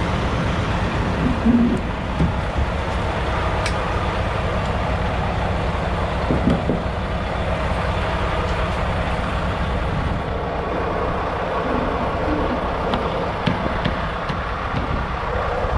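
Semi-truck diesel engine idling steadily, with a few sharp clicks and knocks over it.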